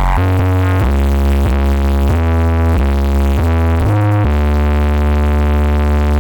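Electronic dance music played very loudly through a huge 'sound horeg' carnival sound system. A heavy synth bass line steps between notes every half second or so, then holds one long note for the last two seconds.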